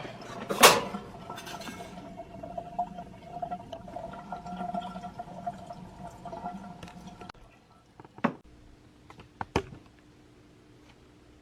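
Water splashing and running in the ice machine's drain, with a steady hum that stops about seven seconds in, followed by two sharp knocks.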